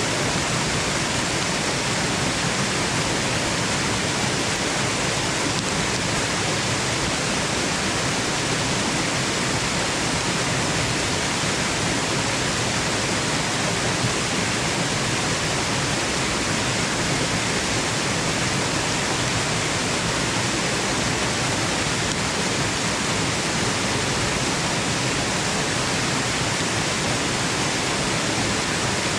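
Waterfall rushing in a steady, unbroken hiss, even and unchanging, used as white noise for sleep.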